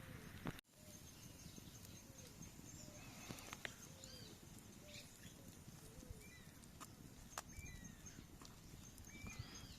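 Faint outdoor ambience with birds calling: many short, arched chirps at low and high pitches, with a few sharp clicks and a brief high trill at times.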